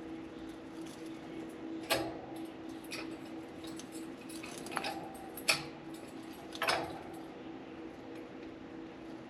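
Budgies pecking and chewing at a soft-wood shredding toy in their cage: a handful of separate sharp clicks and knocks, over a steady low hum.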